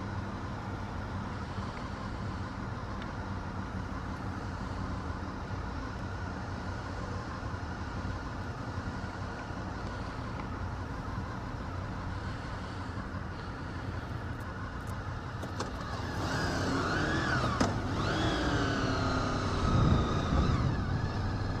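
Motorcycle engine running steadily. In the last few seconds a louder sound wavers up and down in pitch over it.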